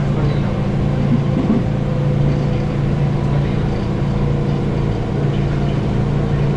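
JR West 221 series electric train running at steady speed, heard from inside the passenger car: a constant low rumble and hum of the motors and wheels on the rails.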